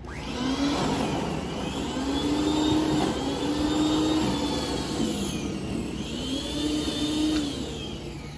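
Snowblower engine running, its pitch rising and falling three times, with a high whine riding on the engine tone.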